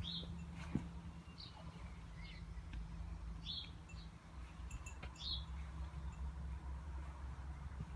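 Several short, high bird chirps, spaced a second or two apart, over a low steady hum.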